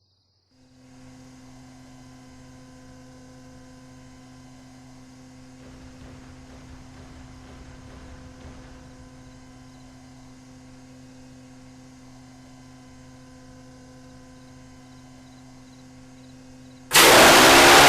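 A steady low hum with evenly spaced overtones, like mains or machine hum. Near the end, a much louder rushing noise cuts in abruptly.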